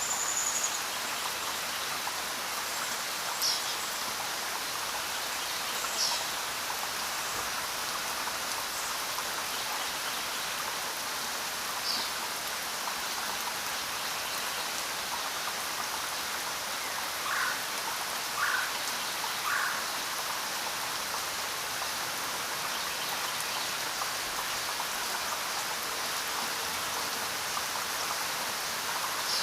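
Steady rainfall, an even hiss of drops with no let-up. A few short high chirps cut through it in the first twelve seconds, and a little past the middle come three lower notes about a second apart.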